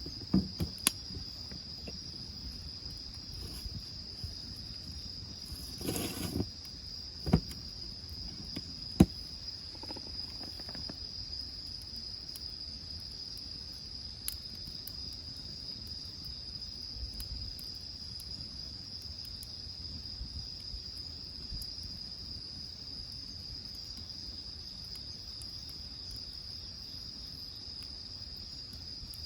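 Insects chirring steadily on one high note, with a few sharp clicks and knocks in the first ten seconds.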